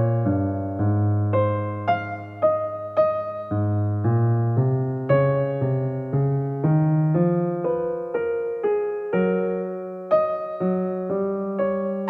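Background music: a gentle piano or electric-piano melody, notes struck one after another and left to ring.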